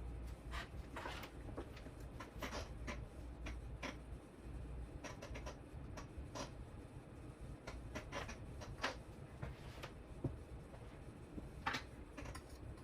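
Faint, irregular light clicks, taps and scratchy rustles of small parts and wiring being handled on a workbench.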